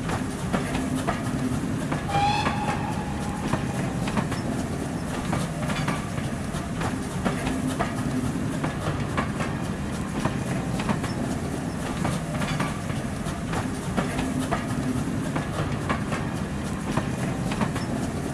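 A train of railway carriages passing, its wheels clicking steadily over the rail joints, with a short whistle blast about two seconds in.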